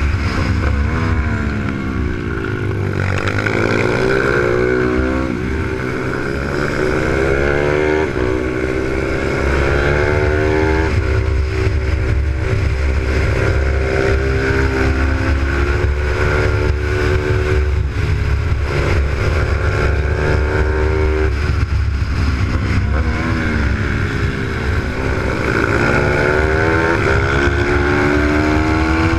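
Single-cylinder Z155 pit bike engine heard onboard, revving hard and then easing off several times as it accelerates along straights and rolls off for corners, with wind rushing over the microphone.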